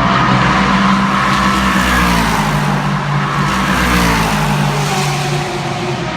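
Endurance race cars' engines running at high revs on the track, loud and steady, with the pitch stepping down about two seconds in and again about four and a half seconds in.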